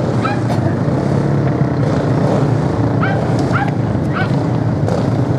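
Racing motorcycle engines droning steadily, with a dog giving short yelping barks, once near the start and three more about three seconds in.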